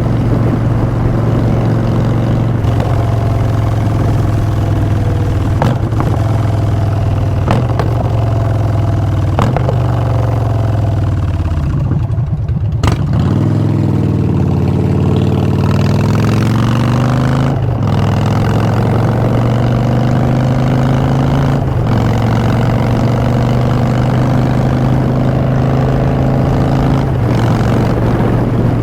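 2016 Harley-Davidson Street Bob's Twin Cam V-twin running through Vance & Hines Short Shots exhaust under way. It cruises steadily, falls off about ten seconds in as the throttle closes, then pulls back up with step-like changes in pitch as it goes up through the gears.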